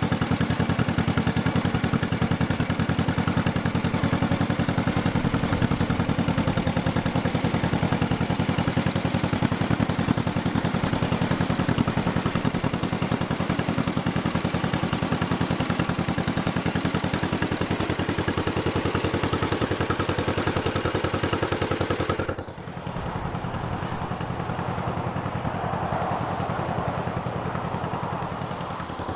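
1955 John Deere 40S two-cylinder tractor engine running steadily with a clattering beat. About three-quarters of the way through the sound drops abruptly quieter and duller for several seconds.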